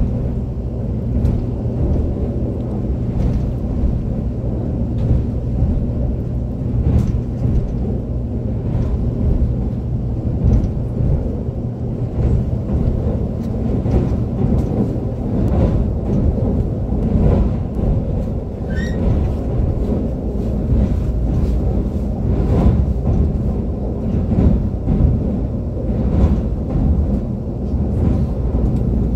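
Running noise of a Korail ITX-Maeum electric multiple unit heard from inside the carriage: a steady low rumble with irregular sharp clicks from the wheels on the track. There is a brief faint high squeak about two-thirds through.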